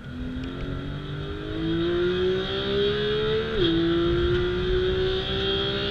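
Porsche 991.2 GT3's naturally aspirated 4.0-litre flat-six accelerating, heard from inside the cabin. The engine note climbs steadily and grows louder, drops sharply at an upshift about three and a half seconds in, then climbs again.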